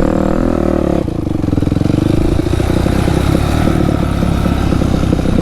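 A 280 dirt bike's engine running loud as it is ridden. The engine note changes about a second in, then holds steady.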